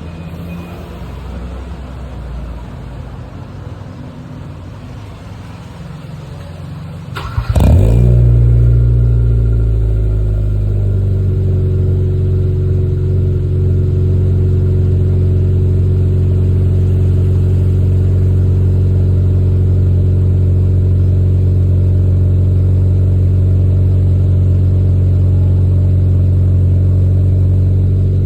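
Hyundai Elantra MD engine cold-starting through its exhaust: after a low rumble, a brief crank about seven seconds in, then the engine catches with a loud flare. It settles into a steady idle.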